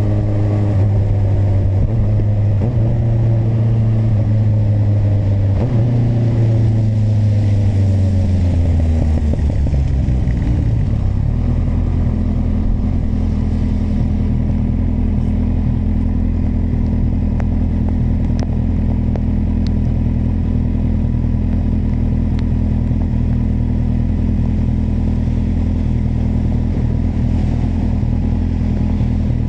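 Kawasaki motorcycle engine running steadily. Its pitch falls as the bike slows, about eight to eleven seconds in, and it then settles into a steady low idle for the rest.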